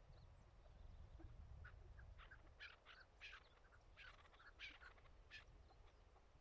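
Chukar partridges calling: a faint run of about ten short notes, from just under two seconds in to about five and a half seconds in, over a low steady rumble.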